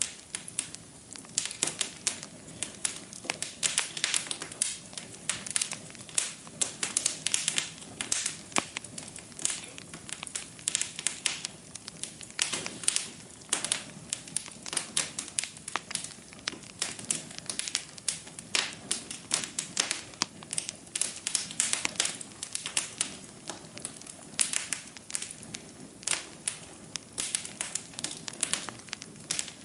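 Wood fire crackling in a fireplace: many irregular pops and snaps, several a second, over a soft steady hiss.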